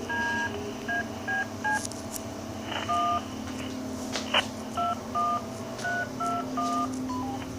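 A string of about a dozen short touch-tone (DTMF) dialing beeps, irregularly spaced, coming through a walkie-talkie speaker over a steady hum.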